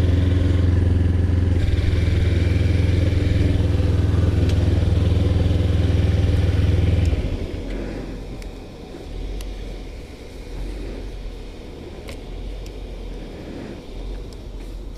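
A vehicle engine idling steadily and loudly close by, then switched off suddenly about seven seconds in, leaving quieter outdoor background.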